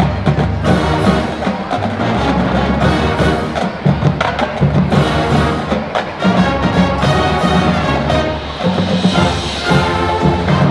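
High school marching band playing a classic-rock arrangement: brass over a driving percussion section with sharp, rapid drum strikes.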